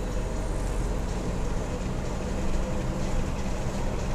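1982 Jaguar XJ6's 4.2-litre straight-six engine running steadily while the car is driven, with road and tyre noise and a low, even rumble.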